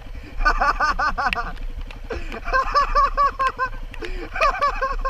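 A person laughing hard in three bursts of quick, repeated "ha" syllables, over a dirt bike engine running in the background.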